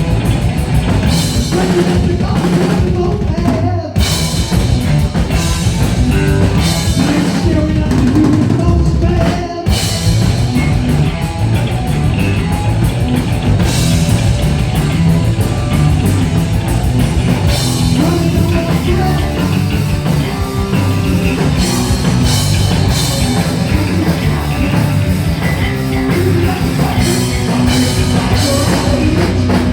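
Heavy metal band playing live: distorted electric guitars, bass and a pounding drum kit, with some singing, loud and dense throughout, briefly dropping out twice, at about 4 and 9.5 seconds in.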